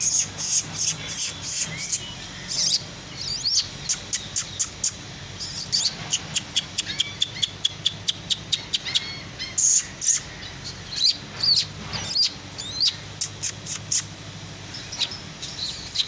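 Many small caged birds chirping, with a constant, irregular stream of short, high-pitched chirps and clicks.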